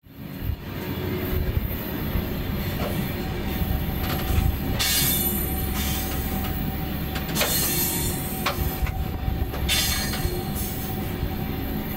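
Mauritania Railway iron ore freight train running, heard from on top of an ore wagon: a steady rumble of wheels and wagons, with short metallic squeals about five, seven and a half and ten seconds in.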